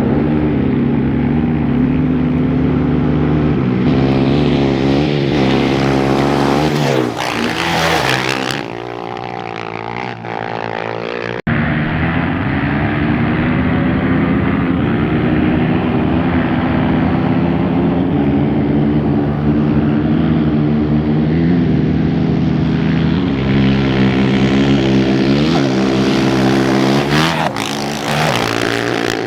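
Off-road race motorcycle engines at high revs, passing close by twice: once about seven seconds in and again near the end. Each time the engine note bends in pitch as the bike goes past, then fades. The sound breaks off sharply at about eleven seconds and picks up again with another engine approaching.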